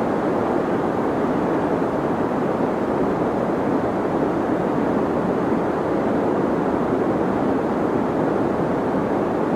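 Steady deep white noise, a constant even hiss weighted toward the low and middle range and rolling off in the highs.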